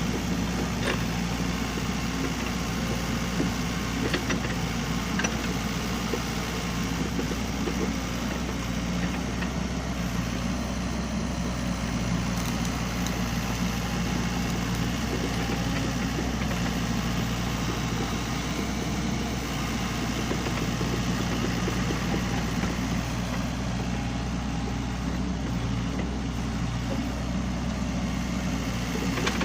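SANY excavator's diesel engine running steadily, with a few faint clicks in the first few seconds.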